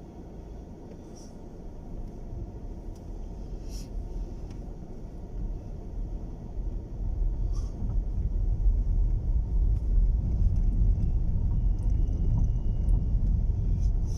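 Low rumble of a car on the move, heard from inside the cabin, growing louder over the first several seconds as it picks up speed and then holding steady.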